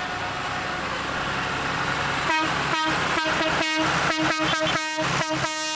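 Vehicle horn tooted in a rapid string of short blasts, about four a second, ending in a longer held blast, over the running of engines.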